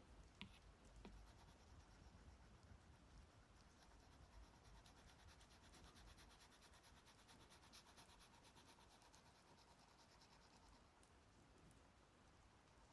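Faint scratching of a stylus on a tablet's glass screen, drawn in rapid, evenly repeated strokes that are densest in the middle.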